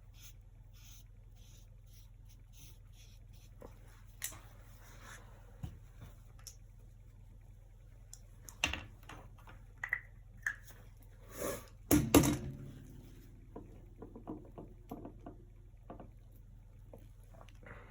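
Painting tools being handled: scattered light taps and clicks, with a louder clatter of something being set down or knocked about twelve seconds in, over a steady low hum.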